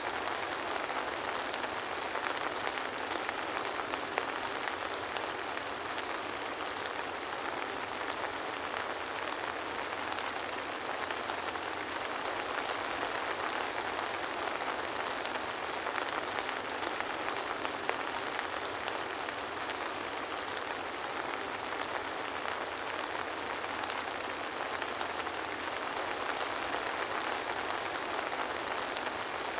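Steady soft rain falling, an even hiss of many fine drops with no thunder.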